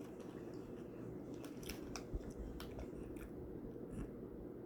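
Faint crunching as a chocolate-coated biscuit stick is bitten and chewed: a few scattered, short crisp crackles.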